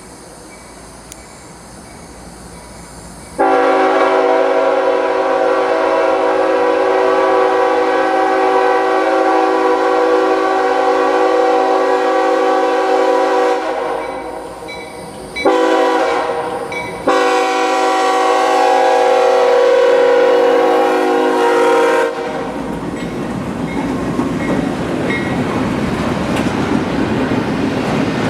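CSX freight locomotive's air horn: a long blast starting about three seconds in, a short blast, then another long blast. After it cuts off the train rolls past with a steady rumble and clickety-clack of wheels on the rails.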